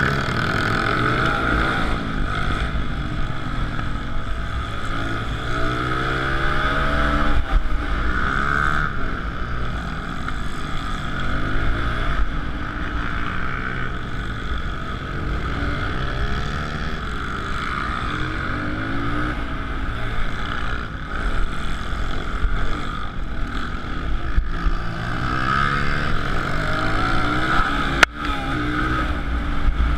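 Suzuki DR-Z125L pit bike's small single-cylinder four-stroke engine revving up and down again and again as it is ridden hard, with wind rushing over the microphone. There is one sharp knock near the end.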